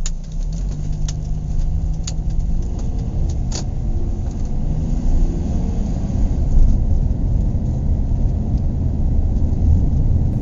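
A car driving, with a steady low road and engine rumble and a few faint clicks in the first few seconds.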